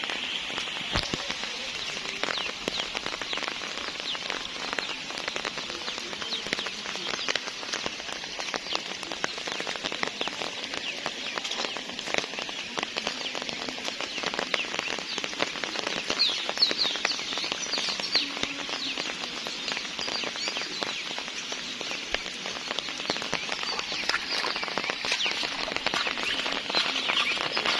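Steady rain falling, with a dense scatter of individual drop ticks. Birds chirp briefly about halfway through and again near the end.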